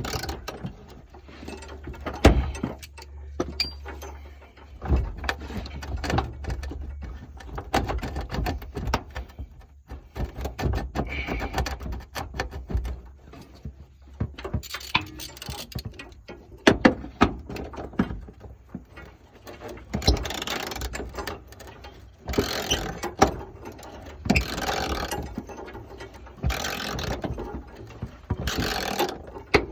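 Hand socket ratchet clicking in short bursts while undoing fasteners, mixed with knocks and clanks of tools and metal parts.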